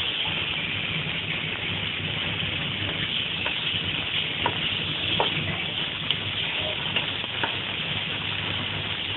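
Sliced chicken fillet sizzling steadily in a little oil in a non-stick frying pan, with a few sharp clicks as a wooden spoon stirs and turns the pieces.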